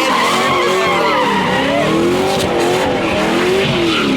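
A car engine revving up and down over and over, its pitch rising and falling several times, while its tyres skid on the pavement as it slides or spins donuts.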